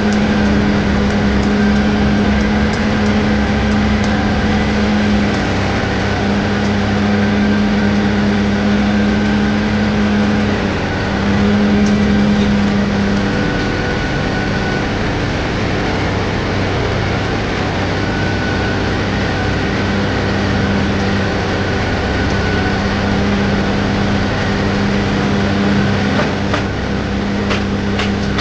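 Diesel engine of a Hitachi 035 mini excavator running steadily under work, a loud drone whose humming tone drops out and returns several times as the load changes.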